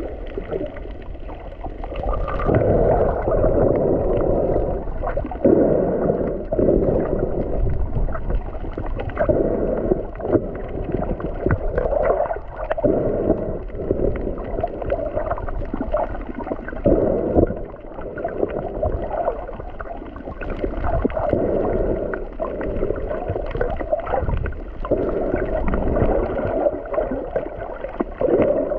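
Muffled water sloshing and gurgling, heard underwater, swelling and falling in irregular surges.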